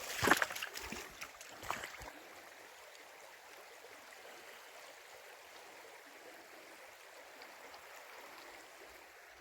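Faint, steady rush of a flowing stream, with a few knocks and scuffs in the first two seconds.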